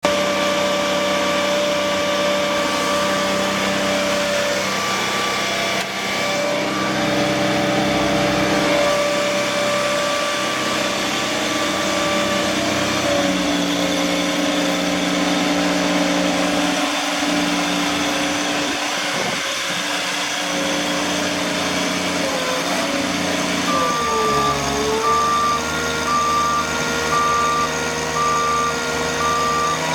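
2008 GMC C7500 chipper dump truck running, its engine note shifting in pitch a few times. About 24 seconds in, its backup alarm starts beeping at an even pace.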